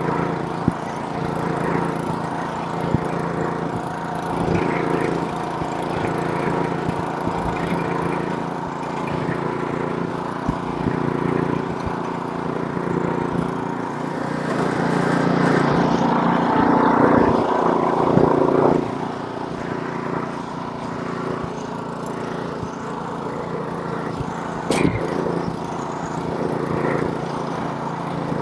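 Gasoline snowblower's small engine running steadily, getting louder for a few seconds past the middle and then dropping back, with a few faint ticks.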